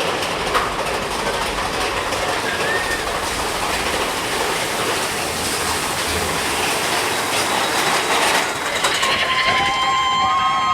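Train running on rails with clatter and rumble; about nine seconds in, a steady chord of several held tones sounds and carries on.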